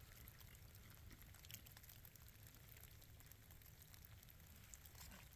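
Near silence: faint outdoor background with a low steady hum and a few faint ticks.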